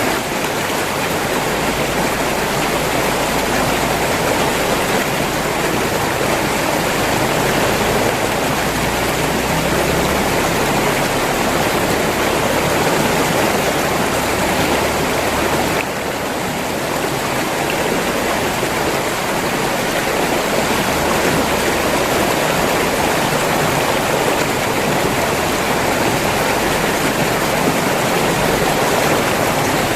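River water flowing in a steady, dense rush, dipping slightly for a moment about halfway through.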